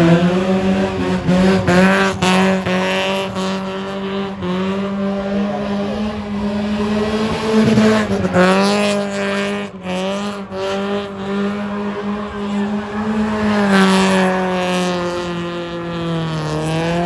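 A car engine held at high, nearly steady revs, with tyre squeal: a burnout. The revs dip briefly about halfway through and again near the end, then climb back up.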